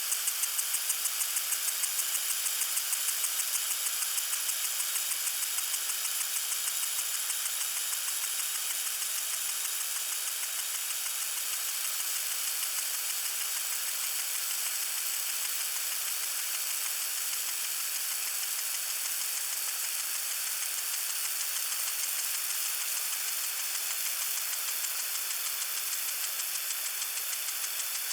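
Water sprinkler spraying: a steady hiss of water with a rapid, even ticking running through it.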